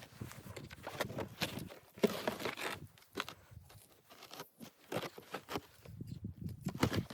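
Irregular crunching footsteps in snow with rustling and a few light knocks, a longer rustling stretch about two seconds in and a quieter lull in the middle.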